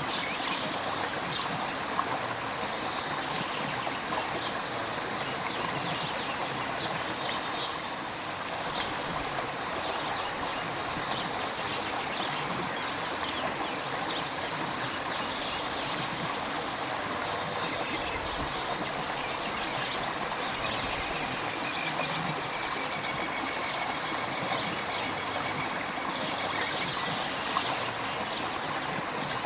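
River water running steadily over rocks, a continuous rush with small bubbling splashes.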